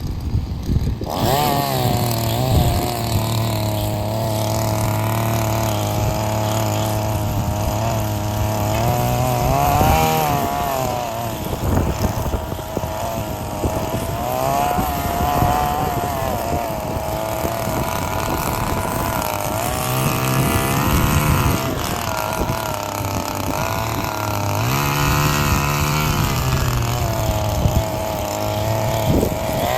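Small petrol engine of a mowing machine running. Its pitch rises and falls several times as it is revved up and eased back.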